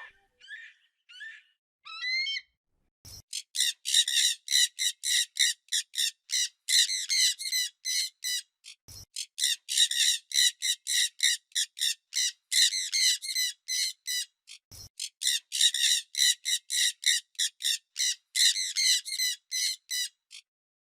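A bird calling in a long, fast run of short, sharp, high chirps, about five a second. It starts with a few scattered single calls and breaks off briefly twice.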